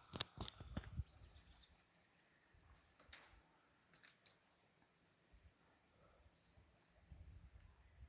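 Faint, steady high-pitched drone of insects, with a few sharp knocks in the first second and one more about three seconds in.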